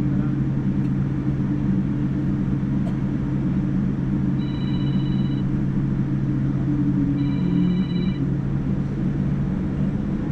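Steady cabin noise inside a Boeing 787-9 airliner in flight: a low engine and airflow hum with a hiss. Two brief high electronic tones sound about three seconds apart in the middle.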